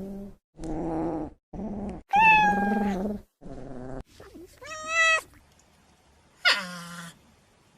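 A cat meowing repeatedly, about six calls, some high and drawn out and some lower.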